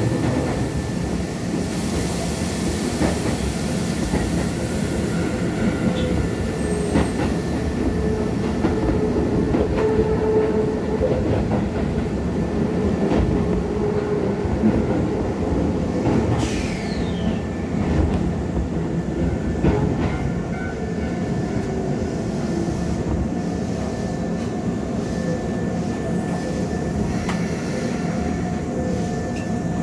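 Keisei 3500 series electric train running, heard from inside the car: a steady rumble of wheels on rail with scattered clicks from the rail joints, and a brief high squeal falling in pitch about halfway through. The train slows and comes to a stop at a station platform near the end.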